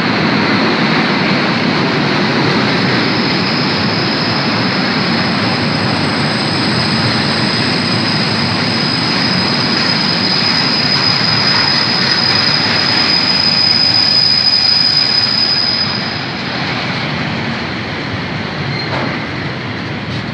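Electric-hauled freight train rolling through a station, its wagon wheels giving off a steady high-pitched squeal from about three seconds in. The squeal stops about sixteen seconds in and the rolling noise drops a little.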